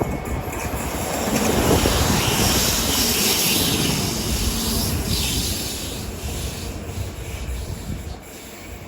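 Passenger train running past on the tracks: rumble and rail hiss that build up, peak, then fade away as it moves off.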